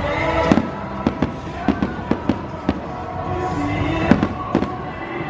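Aerial fireworks shells bursting overhead: a string of sharp bangs and crackles at irregular intervals, several a second, with the biggest reports about half a second in and about four seconds in.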